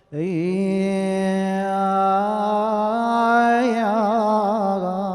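A man chanting an unaccompanied Arabic funeral lament, holding one long note that starts sharply just after the beginning, with a run of quick wavering vocal ornaments about three and a half seconds in.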